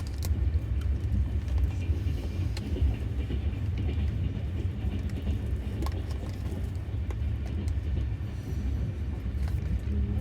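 Steady low rumble of a moving passenger train, heard from inside the sleeper carriage, with a few faint clicks and knocks.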